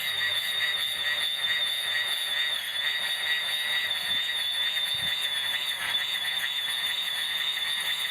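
Electric grass trimmer running steadily with a high, slightly wavering whine, the recording sped up eightfold.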